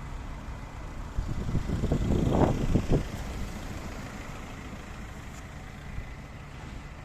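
A motor vehicle passing close by on a street, growing louder from about a second in, loudest around two and a half seconds, then fading into steady traffic rumble.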